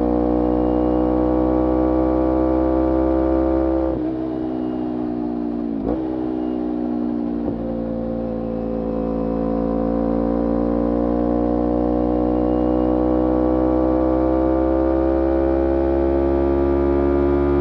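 Kawasaki Ninja 250R parallel-twin engine running through a full Graves racing exhaust while riding. Its pitch falls about four seconds in, with two brief breaks soon after, then climbs slowly and steadily as the bike accelerates.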